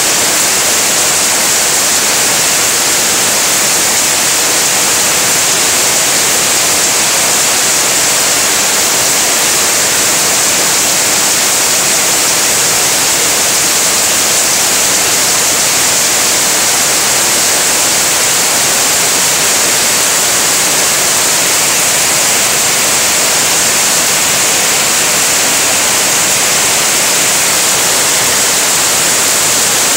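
Heavy rain falling steadily: a loud, even hiss that does not let up.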